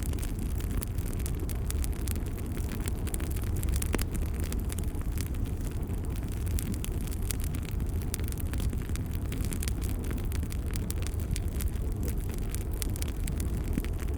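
Wood fire crackling in a fireplace: a steady low rumble of the flames with frequent small sharp pops, one louder pop about four seconds in.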